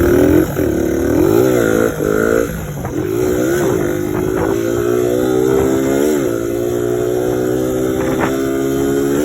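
Suzuki DR100's small single-cylinder four-stroke engine under way on the road, revving up and easing off a few times in the first three seconds, then holding a steady pitch with brief rev blips about three and a half and six seconds in.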